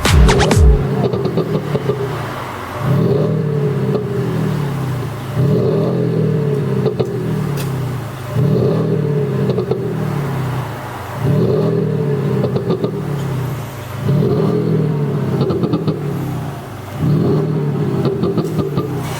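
Genesis G80 with an active exhaust sound system, a speaker unit that plays a synthesized large-displacement exhaust note, being revved about seven times in a row. Each blip jumps up and then falls away over two to three seconds, with pop-and-bang crackling as the revs drop.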